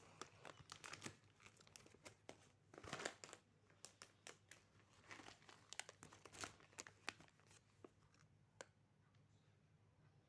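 Faint crinkling and rustling of a plastic snack wrapper being handled, in irregular sharp crackles that thin out near the end.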